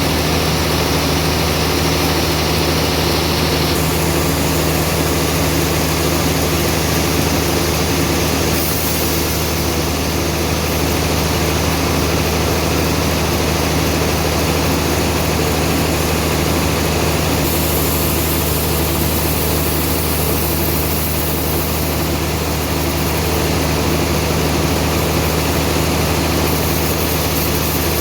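Band sawmill machinery running steadily: a constant, even engine-like hum under a dense hiss. The high part of the hiss shifts abruptly several times.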